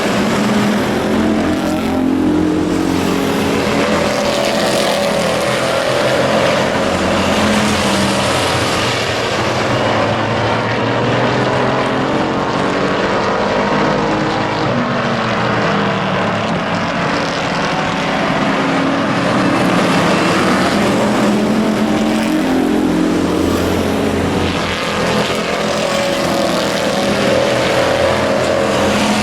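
Engines of several hobby-class race trucks running at racing speed together, their pitches rising and falling against each other as they lap the speedway.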